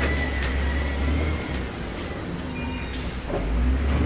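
Diesel heavy construction machinery running: a low engine rumble that eases off about a second and a half in and builds again near the end, with faint metallic squeaks and clanks.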